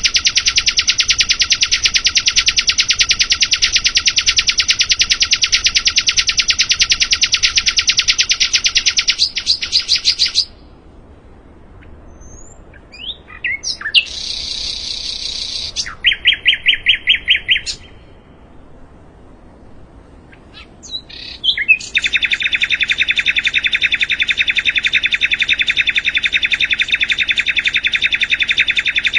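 Sikatan londo singing: a long, very fast, loud trill of rapidly repeated notes, then after a pause a few short calls, a buzzy phrase and a brief trill, and from about two-thirds of the way in another long rapid trill.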